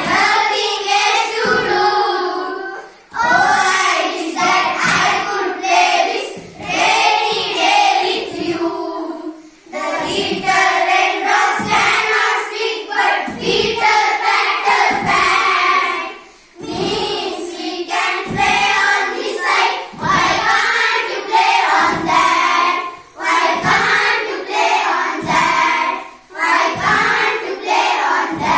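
A group of young children singing an English action rhyme about raindrops together, in short phrases with brief pauses between them.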